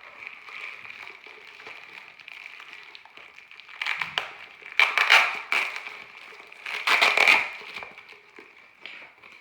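Plastic packaging crinkling as it is handled, with three louder bursts of rustling about four, five and seven seconds in.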